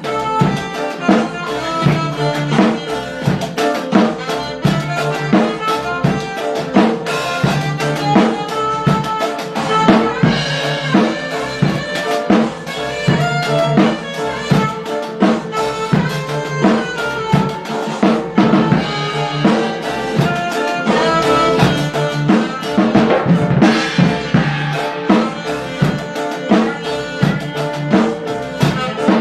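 Music with a drum kit and brass instruments playing over a steady beat, played through a car audio sound system.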